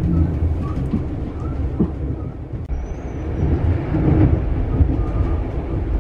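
Passenger train running, heard from inside the carriage: a steady low rumble of the wheels on the track with a few faint clicks.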